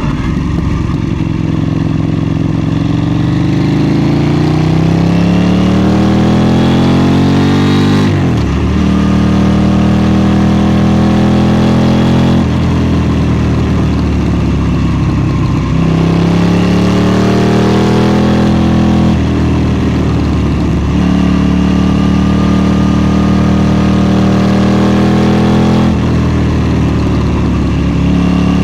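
KTM 790 Duke's parallel-twin engine under hard acceleration on the road, climbing in pitch through the revs and dropping sharply at each gear change. This repeats several times, with short stretches held at steady revs in between.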